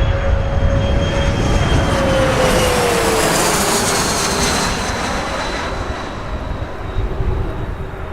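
Bombardier CRJ100LR regional jet's twin rear-mounted GE CF34 turbofans whining as the landing aircraft passes, the engine tones dropping in pitch about three seconds in as it goes by, then fading slightly. A heavy low rumble runs underneath.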